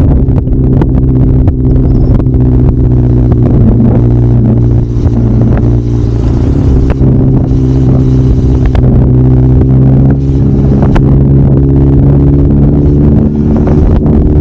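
Kawasaki Zephyr 750's air-cooled inline-four engine running while the motorcycle is ridden, its note holding a fairly steady pitch at a steady cruise.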